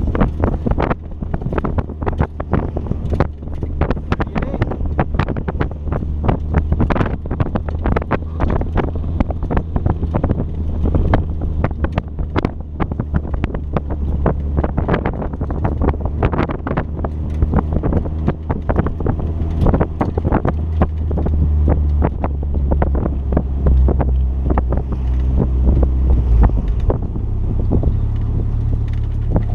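2006 Mazda Miata's four-cylinder engine running hard on an autocross run, with wind buffeting the microphone throughout. The engine drone drops away about 27 seconds in.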